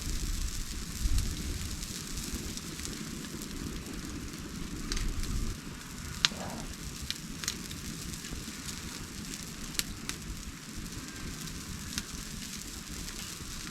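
Wood fire burning, a steady hiss broken by scattered sharp pops and crackles.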